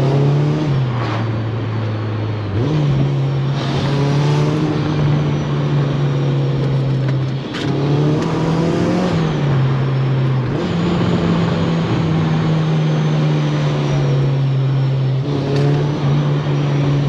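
Honda Civic Si four-cylinder engine heard from inside the cabin, revving under acceleration: the engine note climbs, drops, and climbs again several times as the car is driven through the gears.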